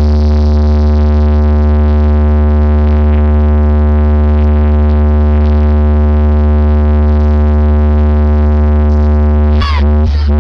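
A loud, steady deep bass tone held through a sound system's speakers, with a stack of overtones above it. About nine and a half seconds in, electronic music with sliding tones starts over it.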